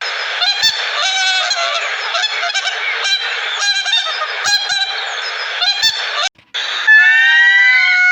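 A flock of waterfowl honking: repeated short calls, several close together, over a constant din of the flock. Near the end the sound cuts out briefly and a different long, steady-pitched call begins.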